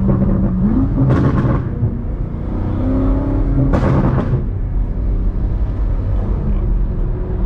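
BMW M5 Competition's twin-turbo V8 under hard acceleration, its engine note climbing in pitch twice as it pulls, with two short rasping peaks about one second and four seconds in.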